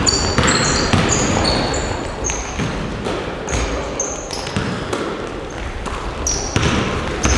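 Basketball practice in a gym: balls bouncing on the court with repeated thuds, mixed with many short, high-pitched squeaks of sneakers on the floor.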